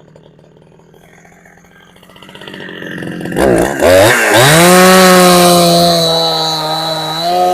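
Two-stroke chainsaw, a Husqvarna 372XP clone fitted with a genuine carburettor, running quietly at first, then throttled up about three seconds in with a few quick revs and held at high revs, loud and steady.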